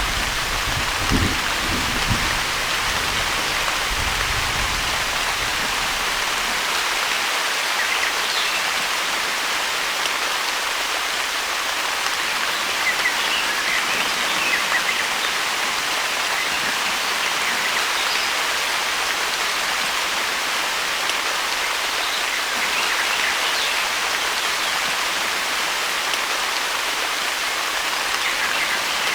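Steady rain falling, an even hiss of drops on surfaces. A low thunder rumble dies away over the first few seconds.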